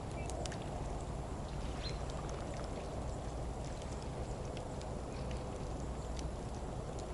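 Steady outdoor background noise with a low rumble and scattered faint clicks.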